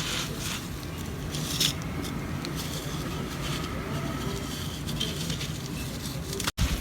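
Dry, cracked mud crumbling, with scattered short crackles over a steady low rumble.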